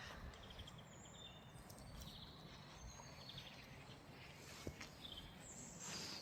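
Small songbirds chirping: scattered short, high calls and a few quick trills, over a faint low background hum.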